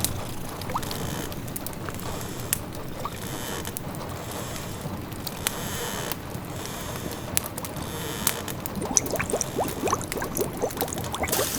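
A pot of food simmering, small bubbles popping; the bubbling gets busier about nine seconds in. Under it runs a steady hiss with occasional sharp crackles from a wood fire.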